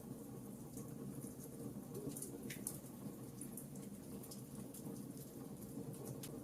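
Wood logs burning in a fireplace: a faint steady rush of flame with scattered small crackles and pops, one sharper pop about two and a half seconds in.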